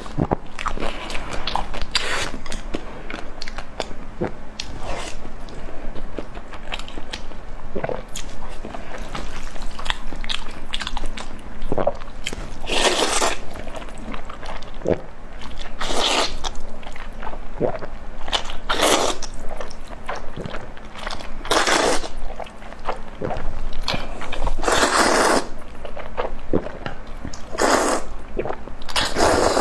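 Close-miked eating: biting into crunchy food and chewing, with a loud crunching bite every few seconds.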